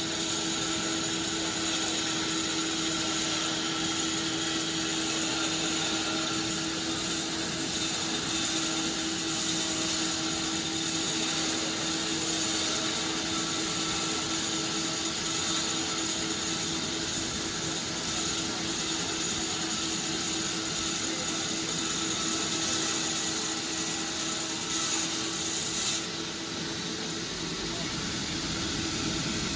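Sawmill machine running with a steady mechanical hum and a high hiss as it saws wood. Near the end the high hiss cuts off suddenly and the sound gets quieter, the machine still running.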